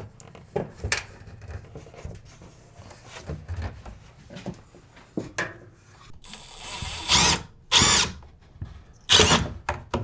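Cordless drill-driver run in three short bursts, near the end, driving a screw into a steel stud, with handling clicks before them.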